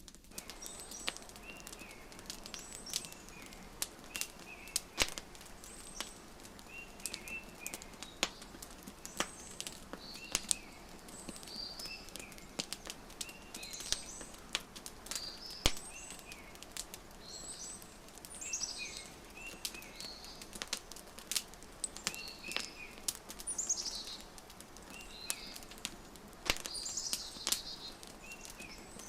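Wood fire crackling with frequent sharp pops, over a faint steady hiss, mixed with small birds chirping: repeated short chirps and quick high trills every second or two.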